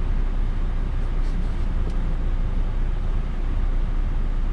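Articulated lorry's diesel engine and road noise, heard from inside the cab as a steady low rumble while the truck pulls slowly through a tight turn.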